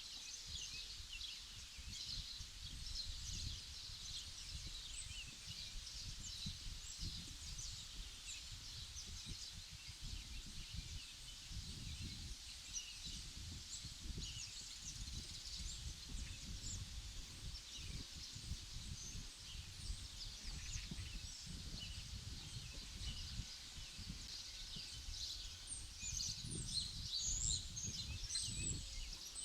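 Small birds chirping many short notes throughout, over a low, uneven rumble of wind.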